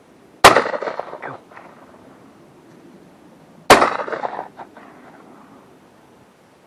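Two shotgun shots about three seconds apart, each a sharp bang trailing off in a rolling echo over about a second.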